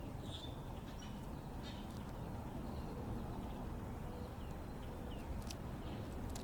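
Short, scattered bird chirps and a few sharp clicks over a steady low background rumble.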